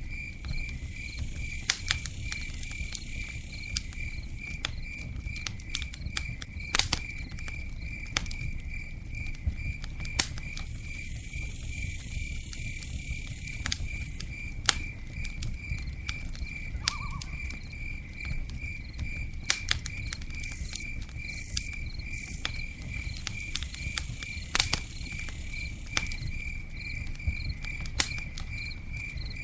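Campfire crackling, with scattered sharp pops standing out over a low rumble. A cricket chirps steadily at about three chirps a second.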